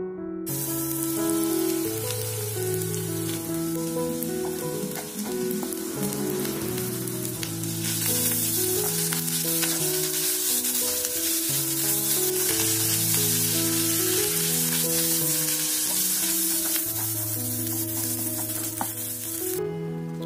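Chopped cabbage, green beans and carrot sizzling as they are stir-fried in an electric frying pan and stirred with a spatula, over background music. The sizzle starts about half a second in, grows louder about eight seconds in, and stops shortly before the end.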